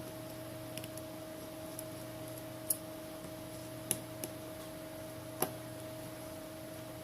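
A handful of small, sharp clicks and taps, several spread over a few seconds, from a screwdriver and tiny screws being worked out of a Samsung Galaxy S7's insides, over a steady electrical hum.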